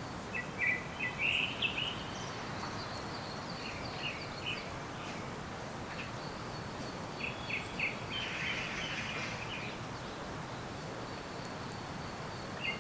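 Small forest birds chirping in short scattered bursts of high notes, over a steady background hiss of outdoor ambience.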